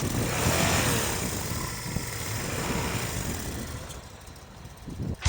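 Suzuki Intruder VS1400's V-twin engine running, with a rough, pulsing low sound and a hiss over it. It is loudest about a second in, fades over the next few seconds, rises briefly near the end, then cuts off suddenly.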